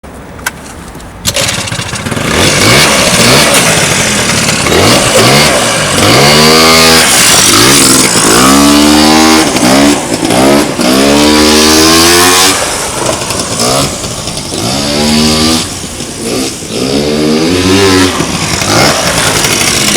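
Small scooter engine revving again and again, its pitch climbing and falling back with each twist of the throttle. It starts a little over a second in and stops abruptly.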